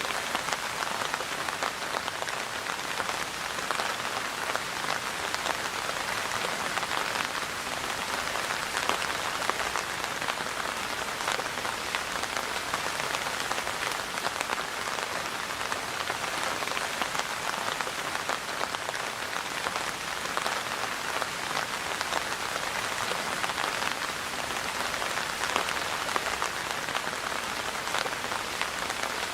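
Steady rain falling on a surface, a dense even patter of many drops with no break.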